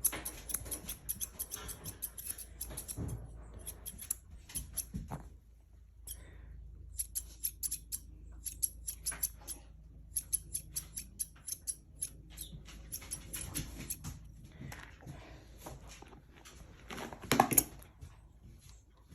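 Grooming scissors snipping hair on a small dog's face, in quick runs of crisp snips with short pauses between them. A louder brief rustling sound comes near the end.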